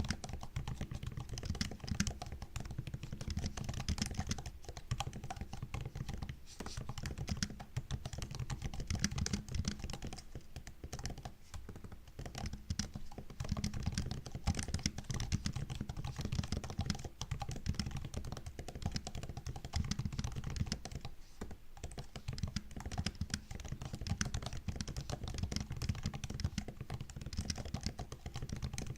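MacBook laptop keyboard being typed on continuously: a quick run of key clicks and taps, with a few brief pauses.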